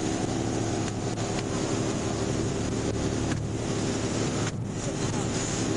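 A steady engine hum of an idling car, with a constant rushing noise over it.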